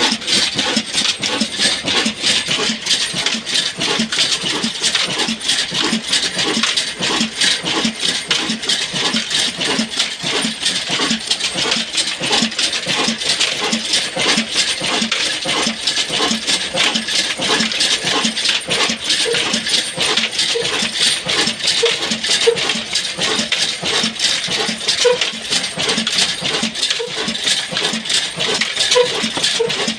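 Old Ruston Hornsby diesel engine running steadily, with a fast, even knocking beat.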